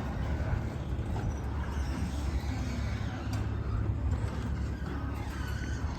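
Linear garage door opener running steadily as it lowers the garage door: a continuous low motor and drive hum.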